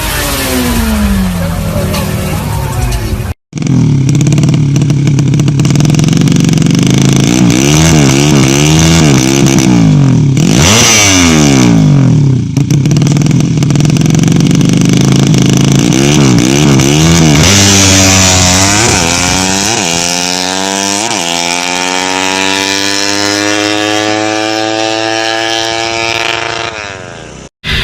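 Motorcycle engine revving hard, its pitch swinging up and down in quick blips, then climbing through several short rises and drops before one long rising pull under acceleration.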